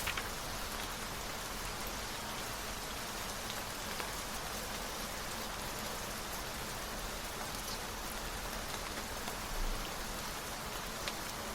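Steady rain falling, with a few brief sharper ticks of drops scattered through it.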